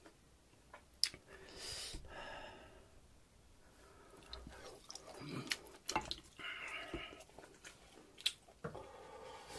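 Quiet, close-miked eating sounds: wet chewing and lip smacking on a mouthful of soft meat from a pork-bone soup, with scattered sharp mouth clicks.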